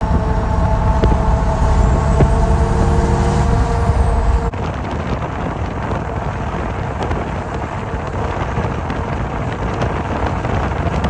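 Truck engine running with a deep rumble and several steady tones, changing abruptly about four and a half seconds in to a steadier, even rushing noise of vehicles on the move.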